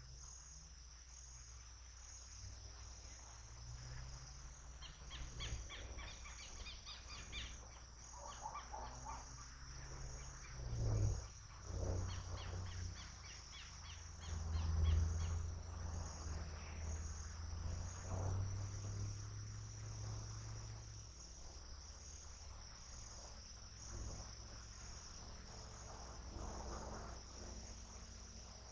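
Crickets chirring steadily in a continuous high pulsing band, with a bird trilling rapidly from about five seconds in and again around twelve seconds in. A few low rumbles, the loudest sounds, swell about eleven and fifteen seconds in.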